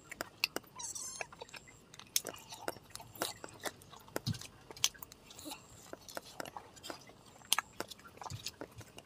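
Close-miked chewing of spicy pork eaten by hand: irregular wet smacks, lip clicks and crunches, many short sharp clicks scattered throughout.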